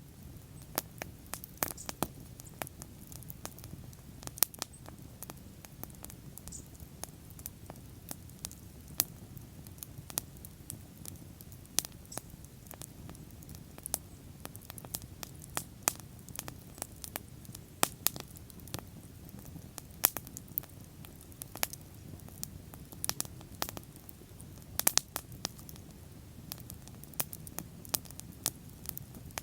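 Bonfire crackling: irregular sharp pops and snaps of burning wood, a few louder ones, over a low steady rumble of the flames.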